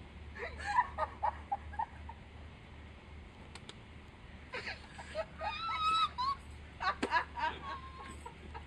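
Uncontrollable high-pitched laughter in bursts, wheezing and squealing giggles that come in three fits, over a steady low train rumble.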